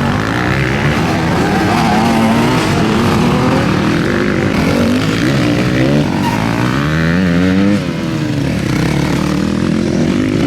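Motocross bikes racing, their engines revving up and falling back over and over as the riders accelerate and shift, with several engines overlapping.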